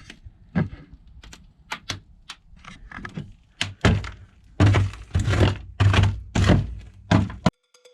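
A series of irregular sharp knocks, turning into heavier, closer-spaced thuds about halfway through, then cutting off abruptly near the end.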